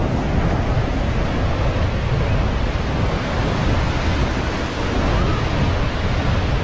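Ocean surf breaking and washing ashore in a steady rush, with wind buffeting the microphone and adding a low rumble.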